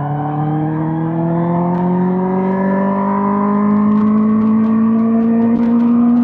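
2005 Suzuki GSX-R1000 K5's inline-four engine pulling under throttle, its pitch rising slowly and smoothly as the bike accelerates with no gear change.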